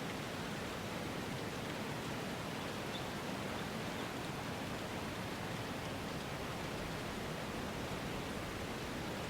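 Steady, even rushing noise from an ambience bed, unchanging throughout, with a few faint ticks about three seconds in.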